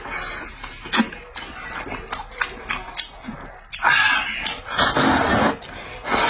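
Close-up eating sounds of glass noodles: wet mouth clicks and chewing, with two longer slurps about four and five seconds in.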